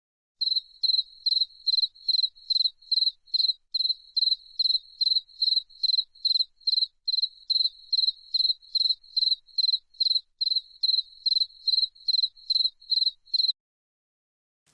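Insect chirping in a steady, even rhythm, about three short high-pitched chirps a second, which stops about a second before the end.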